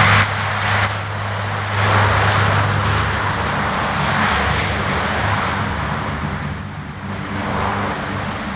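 Aircraft engines running loudly and steadily: a low hum under a broad rushing noise, easing slightly in the second half.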